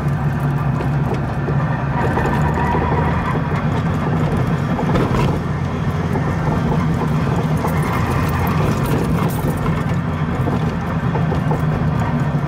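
Goggomobil's air-cooled two-stroke twin engine running steadily while the car is under way, loud inside the small cabin along with road noise.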